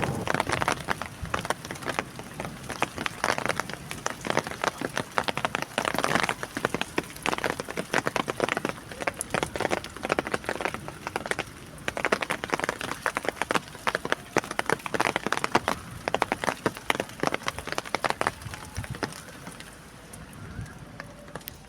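Rain falling, its drops striking a hard surface in a dense, irregular spray of clicks that grows quieter over the last couple of seconds.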